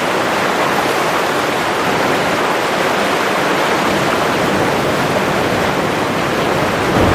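Creek water rushing steadily through a rocky slot canyon, an unbroken loud hiss.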